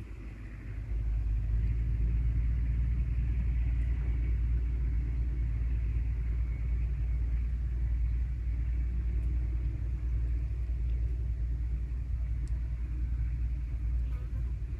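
Wind buffeting the microphone outdoors: a steady low rumble that flickers unevenly, over a faint airy hiss.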